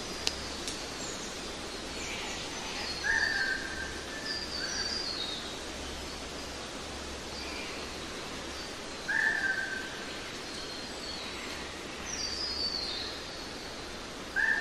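Birds singing over a steady background hiss: one bird repeats a short, flat note several times, and another gives short falling trills. A single sharp click comes just after the start.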